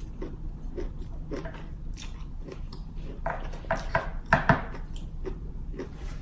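A person chewing food close to the microphone: a string of short mouth clicks and smacks, louder and quicker from about three to four and a half seconds in.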